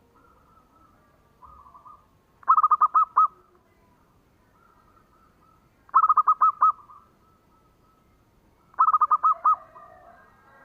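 Zebra dove (perkutut) cooing: three loud phrases a few seconds apart, each a quick run of five or six staccato coos, with fainter cooing from other doves in between.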